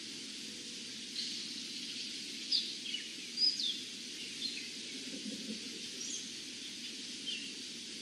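A bird giving several short, high chirps, scattered irregularly, over a steady background hiss.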